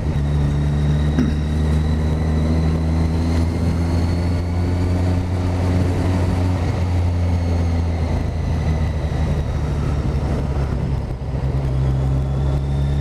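Motorcycle engine running at a steady speed while the bike is ridden along a street, easing off briefly about eleven seconds in.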